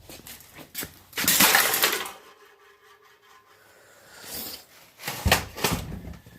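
Hard objects clattering and crashing: a loud, drawn-out crash about a second in, then a few sharp metallic clanks about five seconds in.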